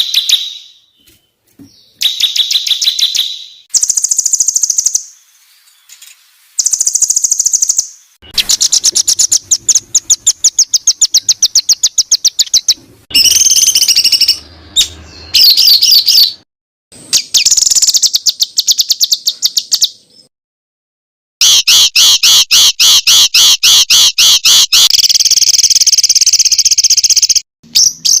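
Songbird song recorded as masteran training audio for competition birds: phrases of rapid, high, repeated chirping notes ('tembakan') with short pauses between them. Over the last third comes a long unbroken run of fast, sharp notes.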